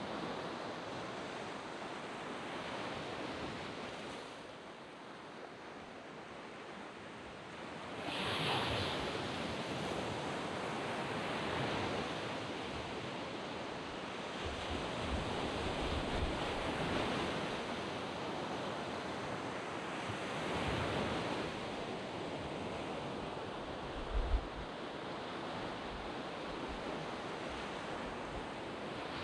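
Sea waves breaking and washing up a sand beach: a steady rush of surf that swells and eases with each wave, the biggest surge about eight seconds in. A brief low thump near the end.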